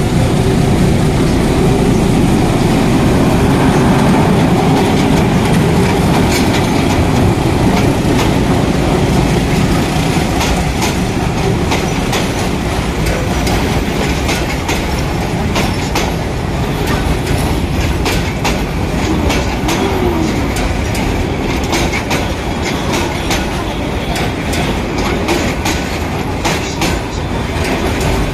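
Passenger train passing at close range: a heavy low rumble at first, then the coaches rolling by with wheels clacking over the rail joints, the clacks coming thicker in the second half.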